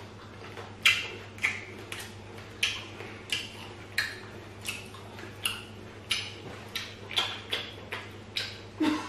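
Open-mouthed chewing close to the microphone: a run of short wet lip smacks, about two a second.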